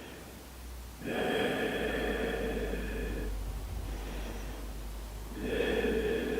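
A person breathing deeply and audibly, deliberate breaths held in a yoga pose: one long breath starting about a second in and lasting about two seconds, and another beginning near the end. A faint steady low hum runs underneath.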